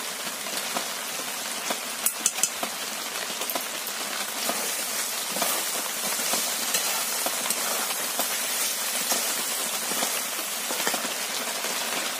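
Chicken pieces and masala sizzling in oil in an aluminium kadai, a steady hiss, with a few clicks of the metal spatula against the pan about two seconds in.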